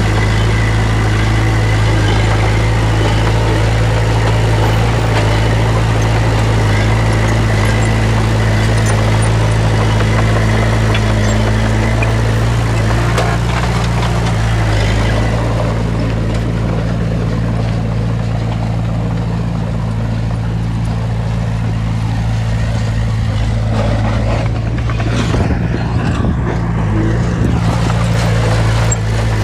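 Heavy earthmoving machine's diesel engine running steadily. Its note eases off and shifts for several seconds past the middle, with some rattling near the end, before settling back to a steady run.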